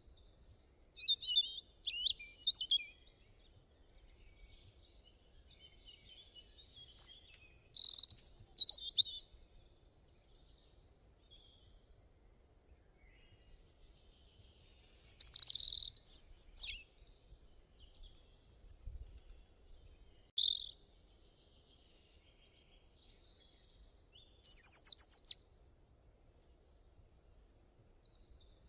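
Songbirds singing and chirping in short, high-pitched bursts several seconds apart, with quiet gaps between the phrases.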